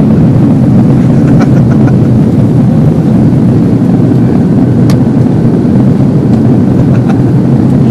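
Steady, loud cabin rumble of an Airbus A330 in flight: jet engine and airflow noise heard from inside the passenger cabin. A faint click sounds about five seconds in.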